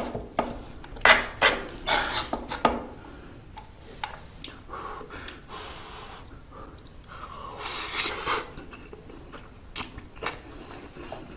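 Eating utensil clinking and scraping against an iron hot plate of fried rice, several sharp strokes in the first three seconds, then fewer, lighter clicks and a brief hiss about eight seconds in.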